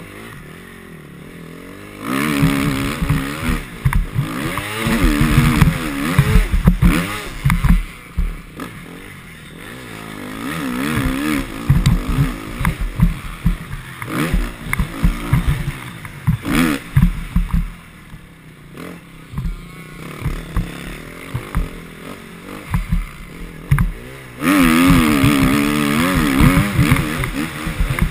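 Motocross bike engine revving up and down over and over as it is ridden hard around a dirt track. Heavy rushing noise comes in loud stretches over it, with many short low thuds.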